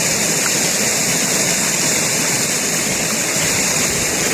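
Rain and snowmelt runoff rushing through a swollen, deep brook: a loud, steady rush of water.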